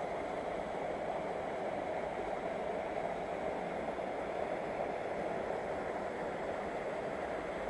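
Steady rush of water in a rocky mountain river.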